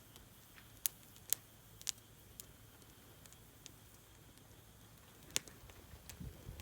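Wood fire crackling in a fire stand: sparse, sharp pops a second or so apart over a faint steady background.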